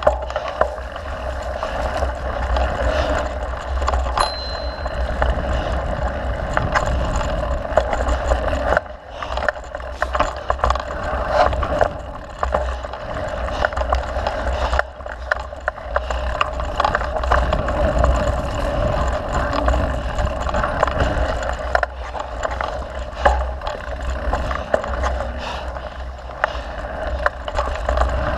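Mountain bike riding along a dirt trail: steady tyre noise with frequent clicks and rattles from the bike over the rough ground, over a constant low rumble.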